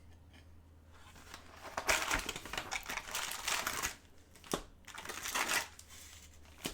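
Foil trading-card pack wrappers crinkling as they are handled and opened. There are two spells of crinkling and a sharp click between them.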